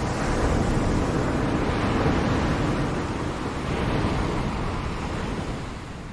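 Ocean waves breaking and washing up, a rushing surge that swells twice and eases off near the end.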